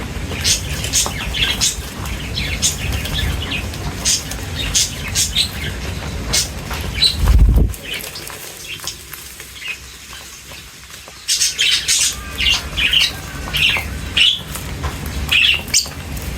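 Small birds chirping and squawking in quick, short high calls, with a lull of a few seconds in the middle. A low rumble runs under the first half, and a loud low thump comes about seven and a half seconds in.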